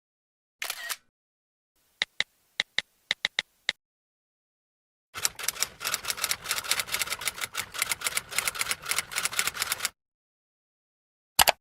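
A run of separate clicking sound effects. First comes a brief burst of noise, then a string of about eight sharp clicks. After that, several seconds of rapid, irregular clattering made of many quick strokes, and one last short click near the end.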